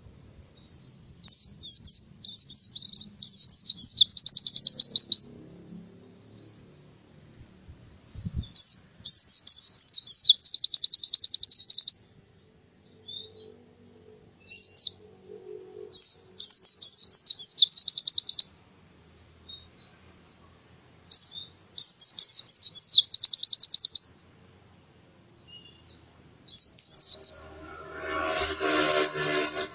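White-eye (pleci) singing in a repeated series of high, fast phrases. Each phrase opens with a few quick notes and runs into a rapid trill of about two to three seconds, and five phrases come with short pauses between them. Near the end a lower, coarser rattling sound joins in.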